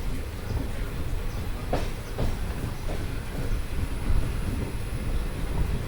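A train running on the rails: a steady low rumble with a few sharp wheel knocks about two to three seconds in.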